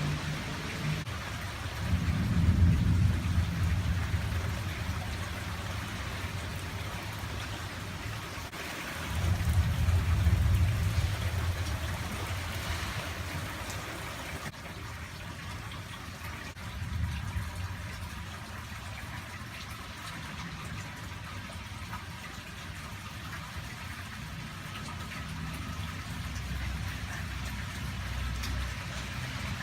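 Steady rain falling, with low rumbles of thunder that swell and fade over several seconds, the loudest about two and nine seconds in.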